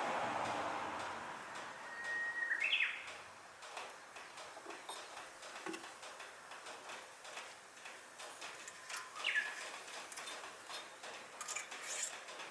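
Birds chirping: a few short sweeping calls about two and a half, nine and eleven and a half seconds in, over faint scattered clicks. A hiss fades away during the first two seconds.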